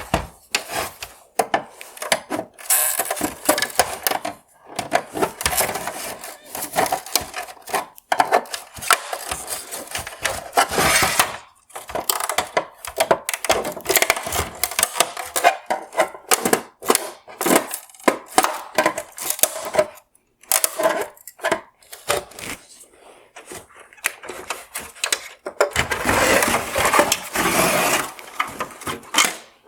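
Plastic outer trim of a Mercedes-Benz ML LED tail lamp being pried and popped out of its housing: irregular cracking, snapping and scraping of plastic, with clicks and knocks, and a longer stretch of scraping near the end.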